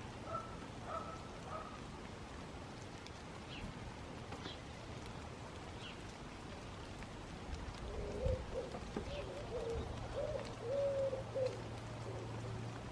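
Garden birds calling, with a pigeon cooing in a repeated run of low phrases from about eight seconds in and a few small high chirps scattered through, over a steady background hiss.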